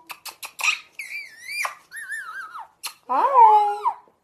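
A bird's calls: a quick run of clicks, then wavering high whistles, then a louder rising, voice-like squawk near the end.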